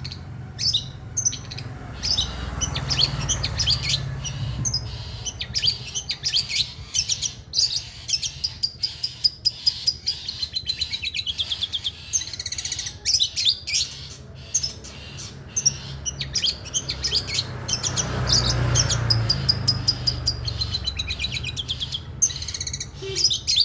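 Long-tailed shrike singing continuously in rapid repeated chirps and trills, working in mimicked collared kingfisher (tengkek buto) calls, over a steady low hum.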